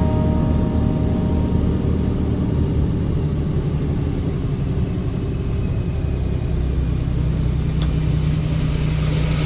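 A car driving in rain on a wet highway: a steady low road and engine rumble with a hiss of rain and tyre spray over it. A single sharp click comes about eight seconds in.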